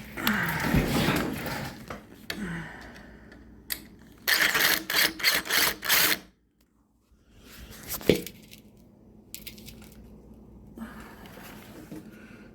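Hands working with parts and tools: irregular clicking and rattling, a busy burst of clicks about four to six seconds in and one sharp click about eight seconds in.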